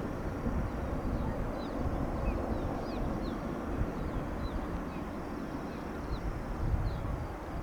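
Wind buffeting the microphone with a gusty low rumble, while small birds call in short high chirps every half second or so.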